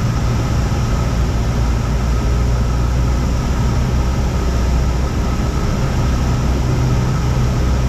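A Cessna 172's four-cylinder piston engine and propeller running steadily, a constant low drone heard from inside the cabin.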